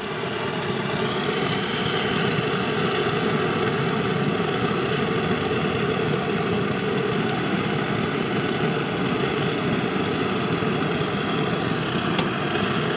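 Small electric fan running steadily, blowing air to fan a campfire; a continuous whirring rush that holds at one level.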